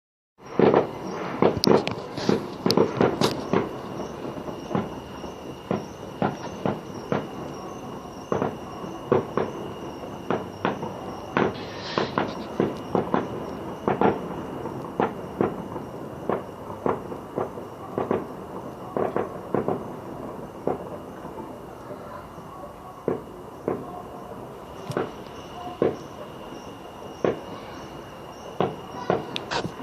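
Fireworks display: shells bursting in an irregular string of bangs, thickest in the first few seconds, then going on more sparsely.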